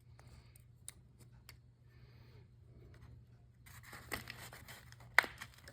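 Small carburetor parts being handled: faint scattered clicks, then light rustling and fiddling with one sharp click about five seconds in, as the float and inlet needle are fitted into place. A low steady hum sits underneath.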